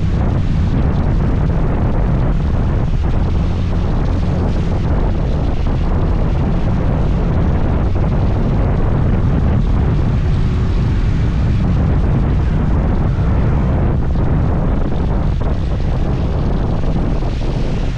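A motor scooter running steadily on the move, with wind rumbling on the microphone.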